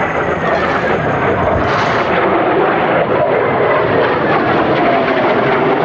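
Fixed-wing aircraft engines, loud and steady, with whining tones that slowly fall in pitch as the aircraft passes.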